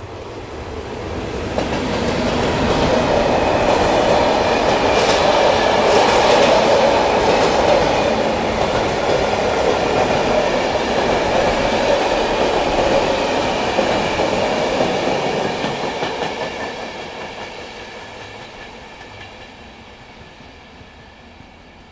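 Electric train passing by on the line: the sound of wheels on rail builds over about two seconds, stays loud for about fifteen, then fades away.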